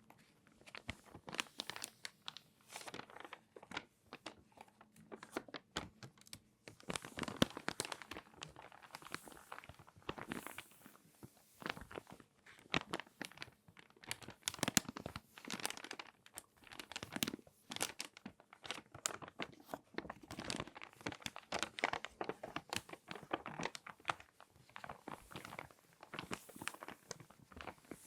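Glossy magazine pages being folded and creased by hand: dense, irregular crinkling and crackling paper in clusters, with short pauses between folds.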